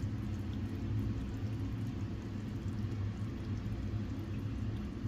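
Pot of chicken simmering, a steady low bubbling.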